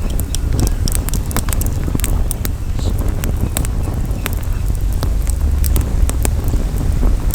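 Campfire crackling, with frequent irregular sharp pops and snaps over a steady low rumble of wind on the microphone.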